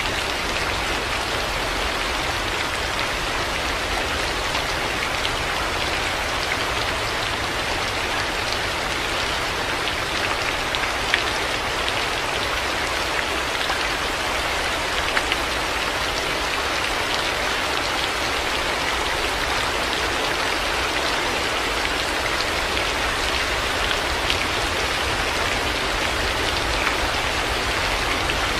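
Heavy rain falling steadily, an even hiss with an occasional sharper drop tick standing out.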